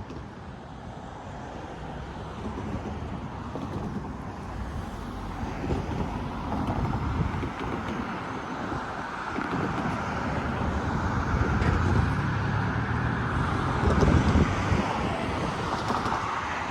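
Road traffic going by: a steady hum of passing cars and trucks that slowly swells and eases.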